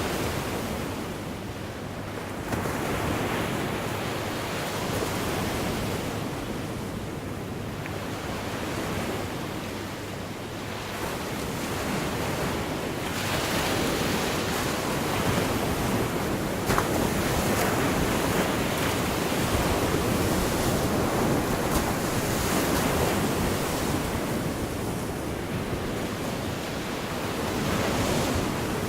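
Gulf of Mexico surf: waves breaking and washing ashore, the rush swelling and easing every few seconds.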